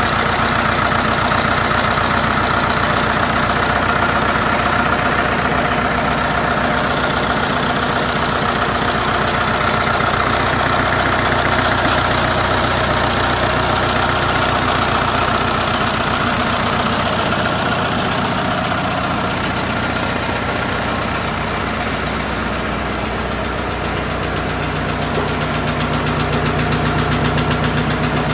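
Hanomag farm tractor engine running steadily at idle, picking up a little in speed and loudness near the end.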